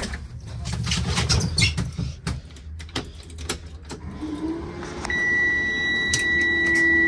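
Knocks and clicks of people climbing aboard a school bus. About four seconds in, a low electric hum comes on and rises slightly in pitch. A second later a steady high dashboard warning buzzer starts sounding as the bus is switched on.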